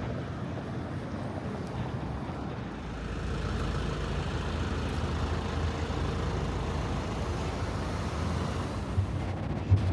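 Road traffic noise on a city street, a steady hum with a low engine rumble that grows about three seconds in and holds.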